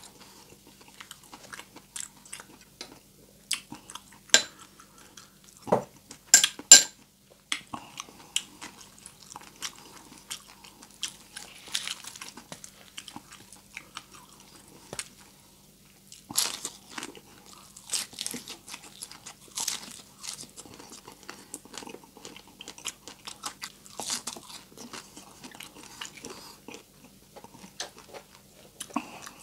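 A person biting and chewing crispy deep-fried pork: a string of sharp crunching bites with chewing in between. The loudest crunches come about four to seven seconds in and again from about sixteen to twenty-four seconds.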